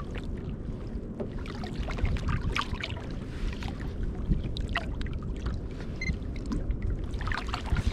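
Sea water lapping and splashing irregularly against a kayak's hull, over a steady low rumble of wind and water.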